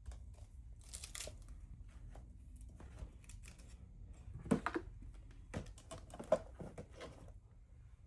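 Packaged gift items being handled and set into a foam-board box: intermittent plastic crinkling with a few light knocks, the sharpest about four and a half and six seconds in.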